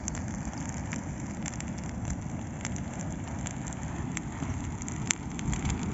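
Large bonfire of cut branches and brush burning, with a steady rushing hiss and scattered crackles and pops, one sharper pop about five seconds in.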